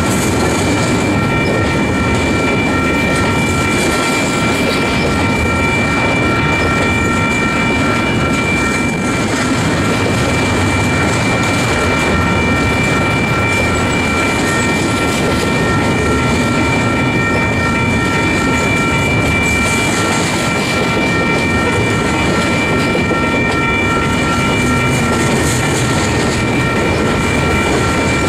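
Double-stack intermodal freight train's container well cars rolling past on the rails, a loud steady rumble of wheels on track. A steady high-pitched ringing tone sits over it.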